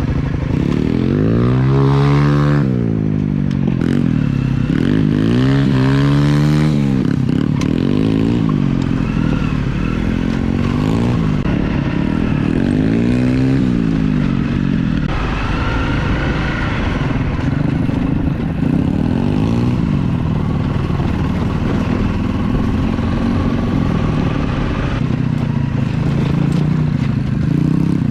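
Small pit bike engine being ridden, revving up and dropping back several times in the first half, then running at steadier revs, with rattling from riding over rough ground.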